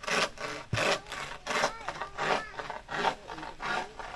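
Hand saw cutting through wood in steady back-and-forth strokes, about six in a row at a regular pace.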